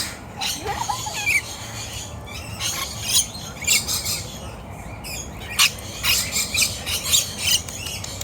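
A flock of lorikeets calling in many short, high chirps and squawks that overlap throughout.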